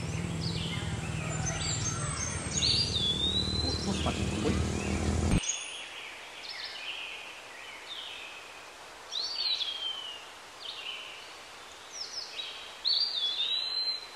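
Birds calling around the water: repeated short whistled calls, several sweeping up sharply, then falling and levelling off. A low steady rumble underneath cuts off abruptly about five seconds in, leaving only the calls over a quiet background.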